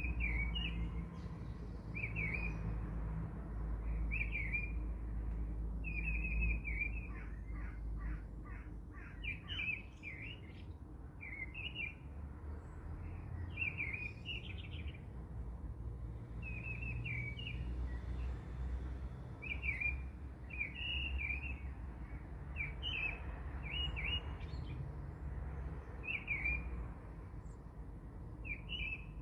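Birds chirping: short phrases of chirps repeating every second or two, over a low steady rumble.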